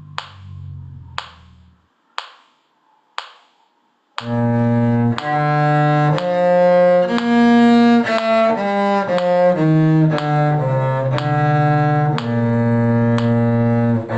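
Metronome clicking about once a second for four beats, then a cello comes in about four seconds in, bowing a lively line of separate low notes.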